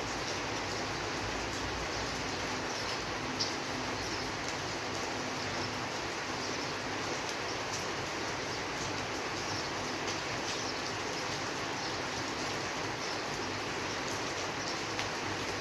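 Steady rainfall, an even hiss of rain with faint scattered drop ticks and one slightly louder tick about three seconds in.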